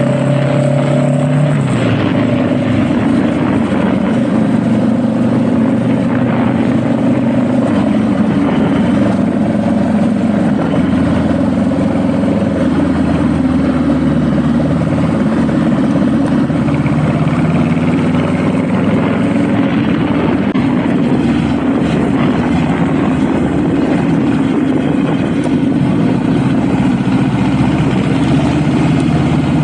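Honda Rebel motorcycle being ridden: the engine runs steadily under a loud rush of wind and road noise. The engine note shifts about two seconds in.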